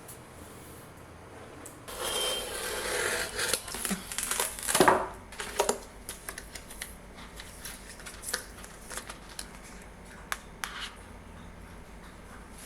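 Crinkling and rustling of something being handled, loudest in the first half, followed by scattered light clicks and taps.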